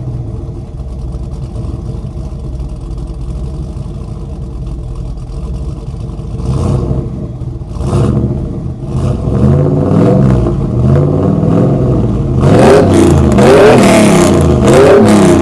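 Chevrolet V8 engine idling with a deep, steady note, then blipped twice and revved repeatedly in quick rising-and-falling sweeps, loudest near the end.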